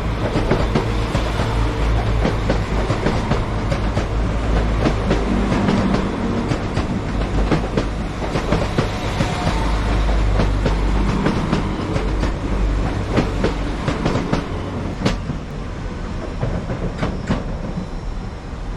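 Northern Class 195 diesel multiple unit moving through the station: a steady low engine rumble, with its wheels clacking and clicking over rail joints.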